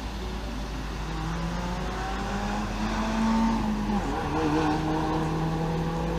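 A motor vehicle's engine running steadily, its pitch climbing slowly and then dropping about four seconds in before settling, over a constant low hum.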